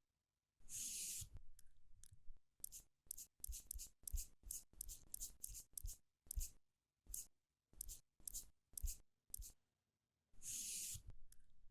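Makeup applicator strokes blending thick cream over a watermelon's rind, close to the microphone: a run of short scratchy swipes and light taps a few times a second, with two longer hissing sweeps, about a second in and near the end.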